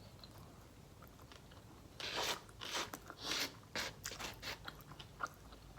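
Close-up crunchy chewing: after a quiet start, a run of crisp crunches about two a second begins about two seconds in and fades near the end.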